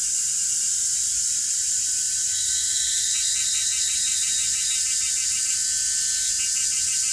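Chorus of singing insects: a steady high-pitched shrill drone, joined about two and a half seconds in by a lower, rapidly pulsing trill.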